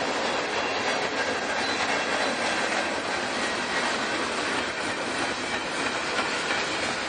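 Norfolk Southern freight train rolling past: a steady noise of steel wheels on the rails with the clickety-clack of wheels over the rail joints.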